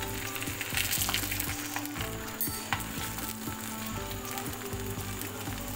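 Batter-coated chicken pieces deep-frying in hot oil in an iron karahi on a high flame, sizzling steadily with many small crackles. Metal tongs turn the pieces and scrape against the pan.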